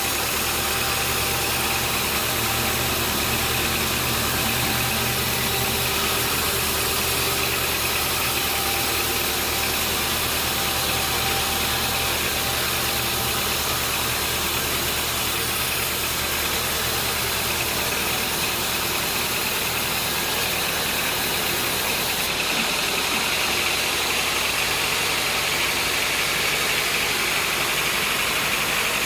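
Sawmill machinery running steadily with a continuous engine-like drone; about 22 seconds in the sound shifts, the low drone easing and a brighter, higher tone coming up.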